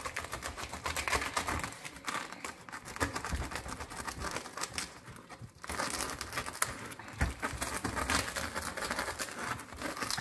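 Serrated bread knife sawing through the hard, crackled crust of a round Maltese loaf: a dense crackling and rasping of crust breaking under each stroke, easing briefly about halfway through.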